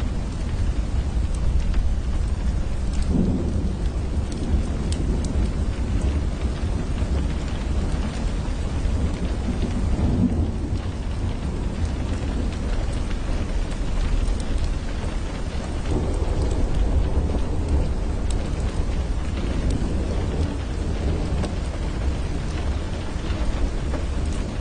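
Steady rain on window glass, with scattered sharp drop ticks, over a continuous deep rumble of thunder.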